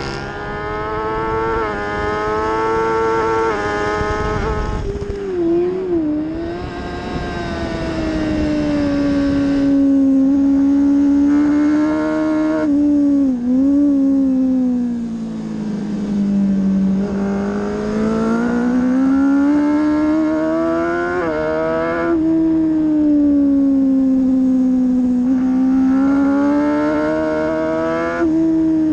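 Kawasaki ZX-10R inline-four engine running hard on a race lap, heard from on board with steady wind rush. The engine note climbs and drops with the gear changes and throttle: quick shifts in the first few seconds, sharp dips on braking, and a long steady pull as the revs sag and climb back through a fast bend.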